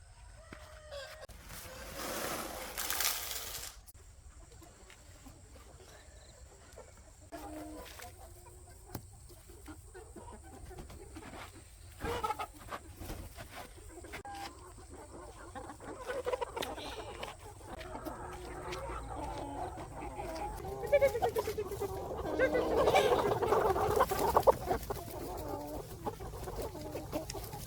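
Chickens clucking, with scattered calls that build into a loud, dense cluster of clucking about three-quarters of the way through. Early on there is a brief rushing noise lasting a second or two.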